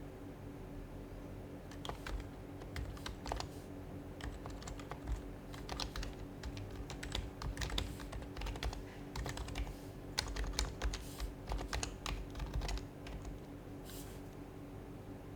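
Typing on an HHKB Professional HYBRID Type-S keyboard with its Topre capacitive switches: quick, irregular keystrokes in uneven bursts with short pauses, then a single stroke near the end. A faint steady hum runs underneath.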